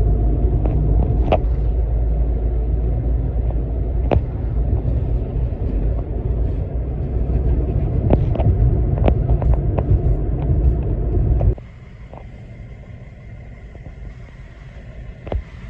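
Steady low rumble of a moving road vehicle, with scattered light clicks. About three-quarters of the way through it cuts off suddenly to a much quieter background with a faint high hum.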